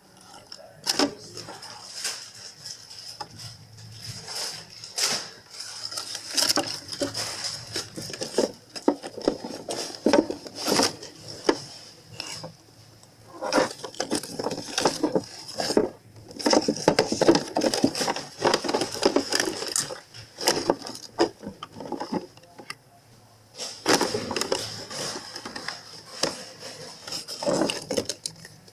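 Food containers, jars and packages being handled and set on refrigerator shelves: scattered clatters, knocks and rustling, over a faint steady high-pitched tone.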